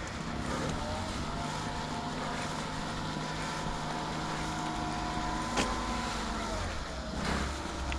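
A vehicle engine running while under way: its pitch rises in the first second, holds steady, then falls about seven seconds in. There is a sharp click a little past halfway.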